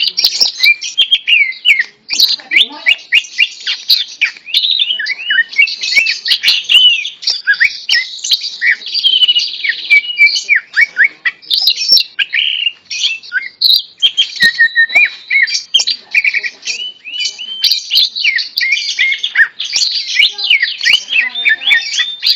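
Cucak ijo (greater green leafbird) singing in full voice, a fast, unbroken stream of varied chirps, whistled slides and quick rattling notes, pausing only briefly about two seconds in.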